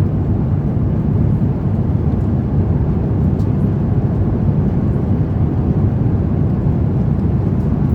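Steady cabin noise of an Airbus A350-900 airliner in flight: an even, low rush of airflow and engine drone that does not change.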